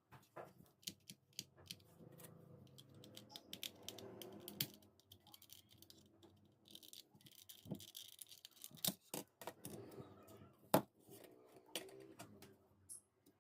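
Irregular clicks, rattles and scraping of a small plastic Philips hair trimmer being handled and taken apart to change its battery, with one sharper click a little before 11 seconds in.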